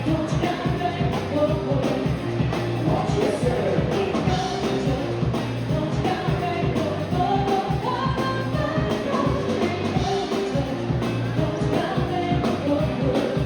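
Live band playing an upbeat pop-rock song, with a singer over a steady beat.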